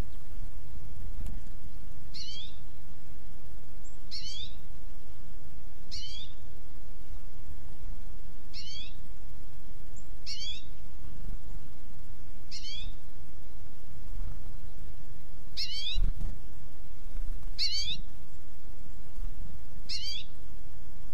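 A bird calling a repeated cat-like mewing note, nine short downward-slurred calls about every two seconds, over a steady low outdoor rumble.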